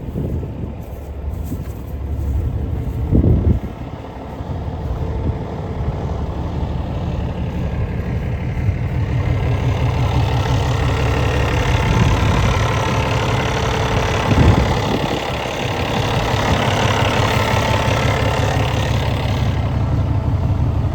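Cummins ISX inline-six diesel of a Peterbilt truck idling with a steady low rumble. A hiss builds up about halfway through and stops shortly before the end, and there are two brief thumps.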